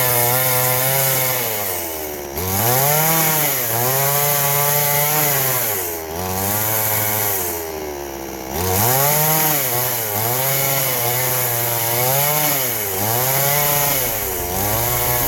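Chainsaw running at full throttle as it cuts into a log, its engine note dipping each time the chain bites into the wood and climbing again as it eases off, over and over.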